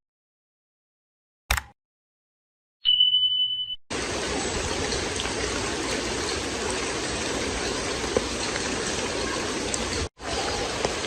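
Two short clicks and a brief high beep, then a steady rushing noise, like running water, that starts suddenly about four seconds in and breaks off for a moment near the end.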